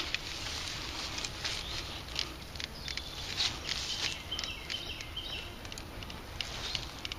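Digging and pinpointing in wet leaf litter and soil: irregular rustling, scraping and small ticking sounds, with faint high chirps in the middle.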